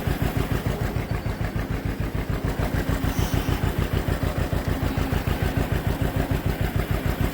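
Tractor engine running steadily at low speed, an even beat of about seven pulses a second.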